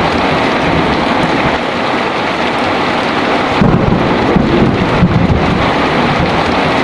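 Heavy rain falling steadily, with a low rumble of thunder swelling about three and a half seconds in and lasting a couple of seconds.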